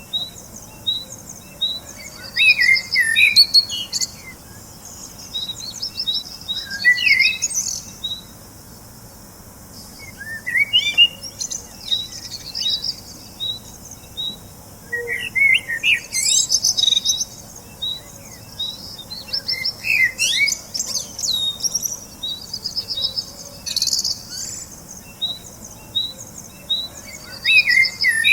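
Birds chirping and singing: a series of short high chirps about two a second, with bursts of quick twittering song every few seconds.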